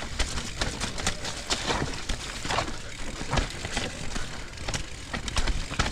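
Mountain bike rattling down a rough, wet trail: tyres rolling over dirt, rocks and roots, with constant clicks and clatter from the chain and frame over a low rumble.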